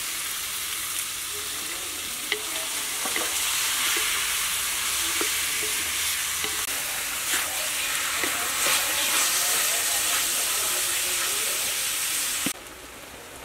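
Sliced beef frying in a hot wok, a loud steady sizzle, stirred with a wooden spatula that knocks and scrapes lightly against the pan now and then. The sizzle drops off suddenly near the end.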